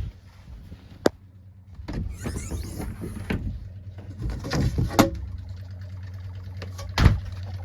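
Camper's 12-volt water pump running with a steady low hum as it builds pressure in the empty water lines. A sharp click comes about a second in, rustling and knocks of handling follow, and a loud thump comes near the end.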